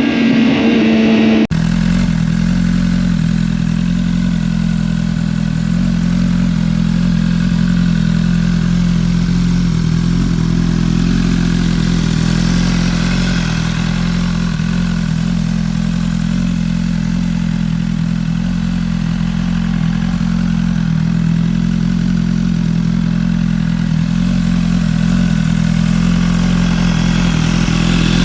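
Motorcycle engine, a BMW S1000RR's inline-four, running steadily at an even pitch without revving. It starts after a sudden cut about a second and a half in, which ends a short stretch of falling tones.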